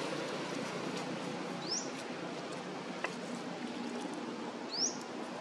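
Outdoor background hiss with two short, rising high bird chirps about three seconds apart, the second the louder, and a faint click between them.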